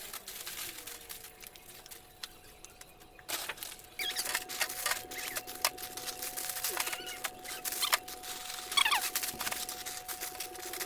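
Clicks, taps and rustles of containers and packaging being handled while a refrigerator is restocked, with a few short squeaks. A faint steady hum comes in about three seconds in.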